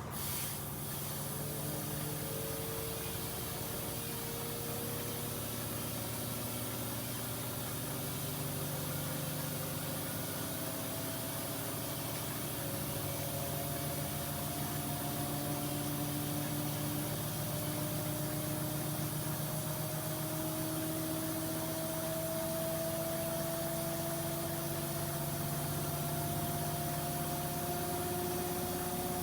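Front-loading washing machines spinning up, their motor whine slowly rising in pitch as the drums gather speed towards a 1400 rpm spin, over a steady hum.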